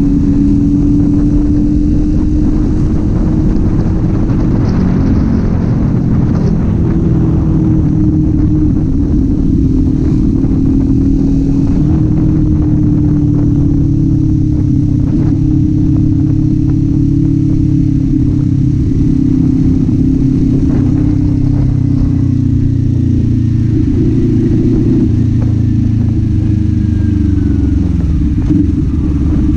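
Kawasaki Z400's parallel-twin engine and exhaust running under way, the engine note rising and falling slightly with the throttle; near the end the revs drop, then climb again.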